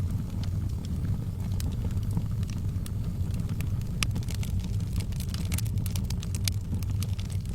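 Wood fire crackling in a fireplace: scattered sharp pops and snaps, several a second at times, over a steady low rumble of the burning.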